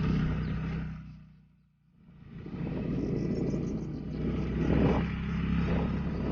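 Motorcycle running at road speed, with wind noise over the microphone. The sound fades out briefly about two seconds in, then comes back.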